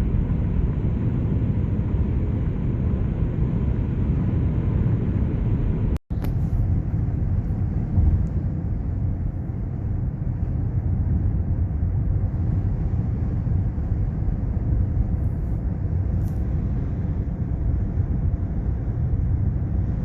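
Steady low rumble of a moving vehicle or train, with a sudden brief dropout about six seconds in.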